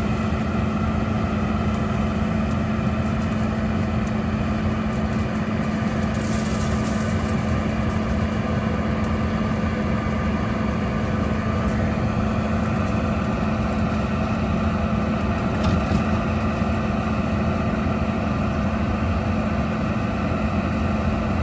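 John Deere S7 800 combine running steadily while harvesting corn: a constant machine drone with a strong steady hum, and a brief hiss about six seconds in.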